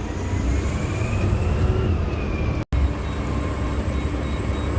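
Garbage truck's diesel engine running with a heavy low rumble, heard from inside the cab, with a faint whine that rises and then falls.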